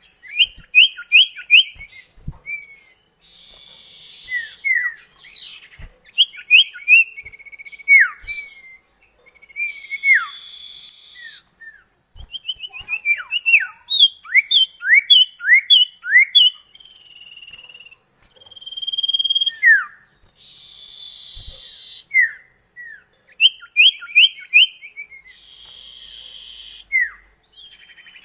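Common iora (cipoh kacat) singing: quick runs of short, falling whistled notes, broken several times by short harsh buzzy trills.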